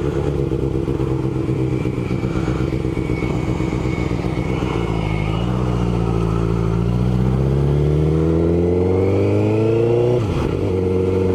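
Honda CBR1000RR's inline-four engine running under way at a steady pitch, then pulling up in revs for about four seconds before a sudden drop as it shifts up a gear, and steady again after.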